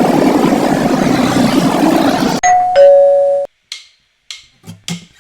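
A steady noisy background cuts off suddenly, and a two-note ding-dong doorbell chime sounds, a higher note and then a lower one. A few short clicks follow.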